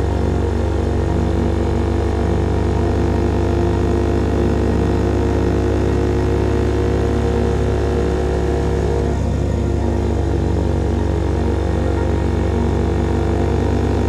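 A CFMOTO Papio's small single-cylinder engine running through a KO Lightning slip-on exhaust while riding. The pitch eases down, breaks briefly about nine seconds in, then climbs again.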